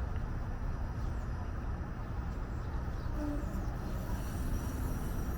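Steady low rumble of streetcars and road traffic.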